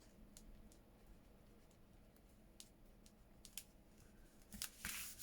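Near silence, with faint scattered clicks and taps from paper pieces being handled and pressed down while gluing, and a louder paper rustle near the end.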